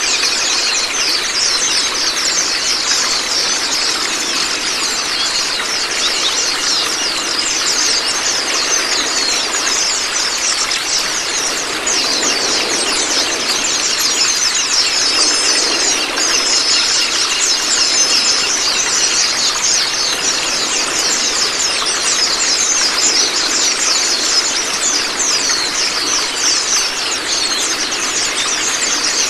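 Steady rush of running water under a dense, continuous stream of high, rapid songbird chirps and twitters, with a few short clear whistles about halfway through. This is a water-therapy track mixed with recorded bird song, used to train a pet white-eye.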